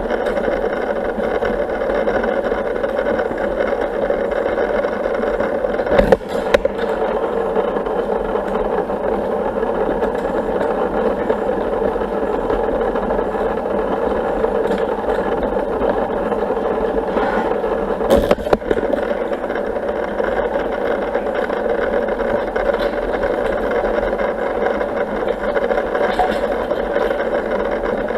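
Steady mechanical hum of a pool pump running, driving an Intex automatic pool vacuum, with a brief knock twice.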